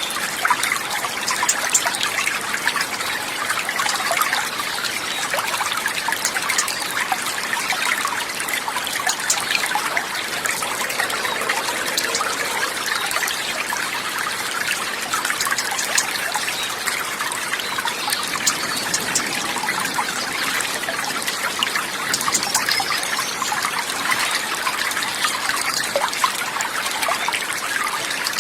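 Running water trickling and splashing steadily, as from a small stream, an even rushing that does not change.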